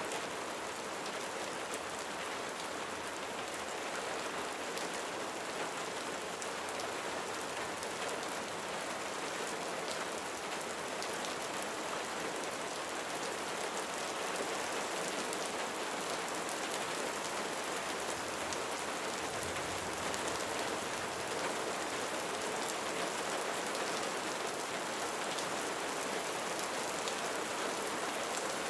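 Steady rain falling on a roof, with many single drops ticking through the even hiss.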